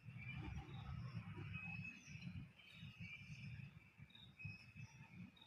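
Quiet outdoor ambience: a faint, uneven low rumble on the microphone, with faint high chirps scattered through it.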